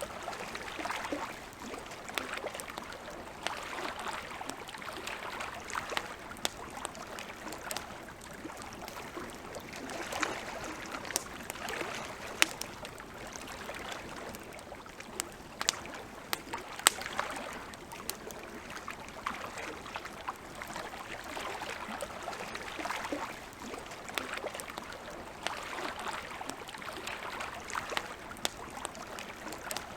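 Campfire crackling, with many sharp pops scattered through, the loudest about twelve and seventeen seconds in, over small lake waves lapping in soft swells every few seconds.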